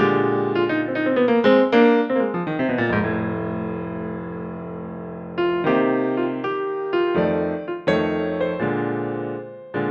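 Background piano music: a run of quick notes in the first few seconds, then chords struck and left to ring.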